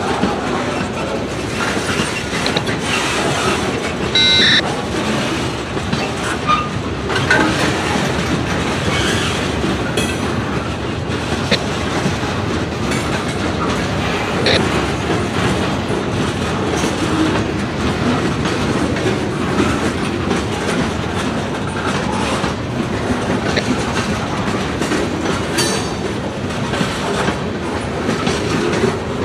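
Freight train cars rolling past steadily, wheels clacking over the rail joints, with a brief high wheel squeal about four seconds in.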